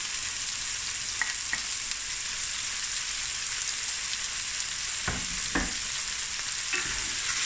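Chicken cubes with chilies, garlic and ginger frying in hot oil in a stainless steel pan, a steady sizzle. A couple of light ticks about a second in and two dull knocks around five seconds in.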